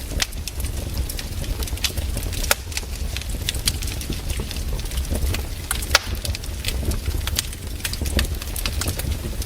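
Wood campfire crackling, with irregular sharp snaps and pops several times a second, one louder pop about six seconds in, over a steady low rumble.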